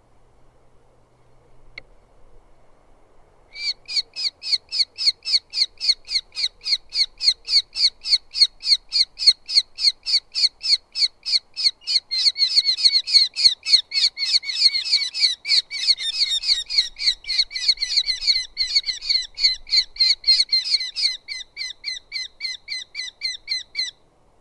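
Eurasian hobby calling: a long run of short, high calls repeated about three a second, starting a few seconds in and going on for about twenty seconds.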